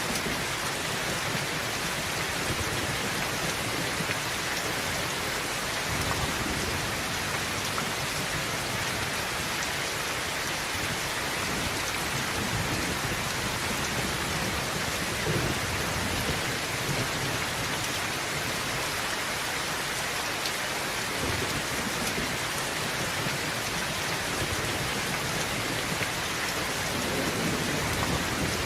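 Heavy rain drumming steadily on a tin roof, with low rumbles of distant thunder a few times.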